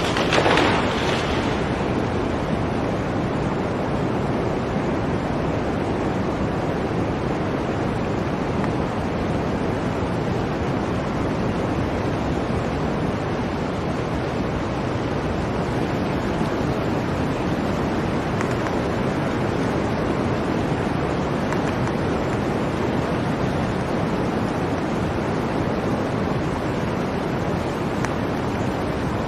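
Blizzard wind blowing steadily, with a stronger gust in the first second or so.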